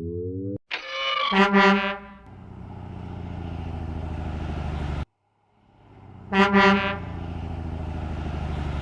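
Truck horn honking twice, about five seconds apart, each honk followed by a steady engine hum; the first hum cuts off suddenly. A short rising tone sounds at the very start.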